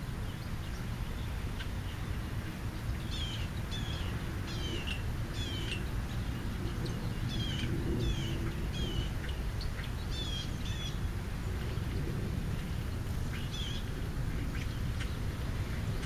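Small birds calling: a run of short, high chirps that each drop in pitch, thickest from about three seconds in to about eleven and again near the end, over a steady low rumble.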